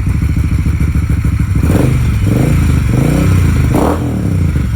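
Moto Guzzi California 1400's V-twin engine running through a Mistral aftermarket muffler, blipped up and back several times from about two seconds in until near the end.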